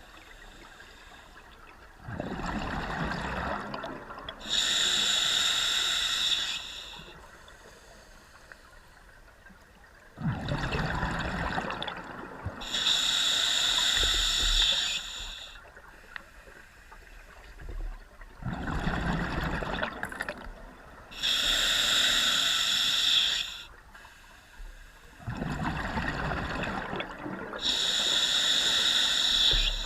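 A scuba diver breathing through a regulator underwater, four slow breaths about eight seconds apart. Each breath is a rumbling burst of exhaled bubbles followed by the hissing rush of the inhale through the demand valve.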